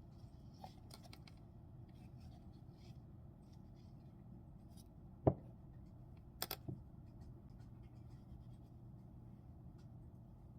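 Quiet hand-knitting of sleeve ribbing: faint rubbing of yarn and soft ticks of the knitting needles, with one sharp click about five seconds in and a few small clicks a second later.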